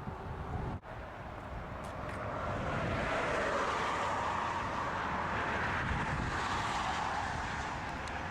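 Scania G420 truck with its 420 hp straight-six driving: engine and road noise that swells over the first few seconds and then holds steady.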